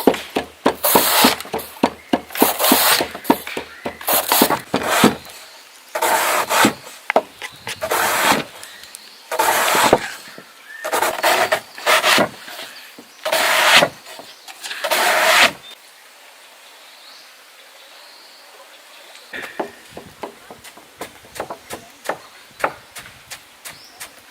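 Repeated rough rasping strokes, about one a second, like something being scraped or rubbed by hand. They stop about two thirds of the way through, leaving faint scattered clicks.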